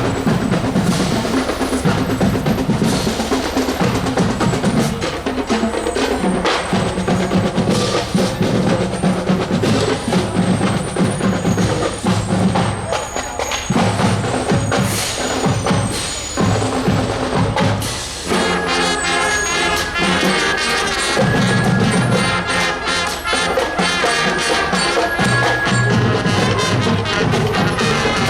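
Marching band drumline playing a cadence on its drums, bass drum included. About eighteen seconds in, the wind and brass players come in with a tune over the drums.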